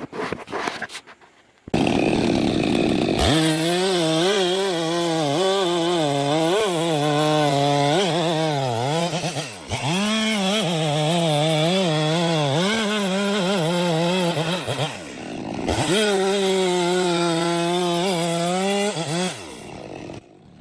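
Two-stroke chainsaw cutting into a tree trunk at high revs, its pitch wobbling up and down as the chain loads in the wood. It starts about two seconds in, dips in revs briefly twice, and stops shortly before the end.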